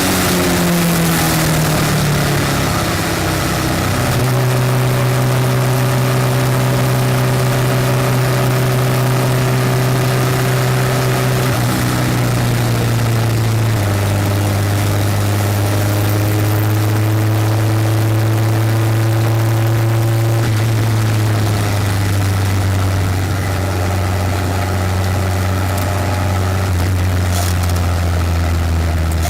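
Westfield race car engine heard from onboard, running hard at high, steady revs. The pitch falls over the first few seconds, then steps down slightly a few times along the straight, with heavy wind and road noise over it.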